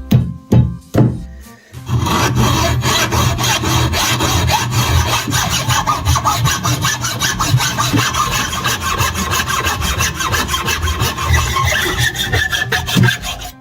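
A few sharp knocks, then rapid, steady scraping strokes of hand abrasion, filing or sawing, on the old knife or its handle, stopping shortly before the end.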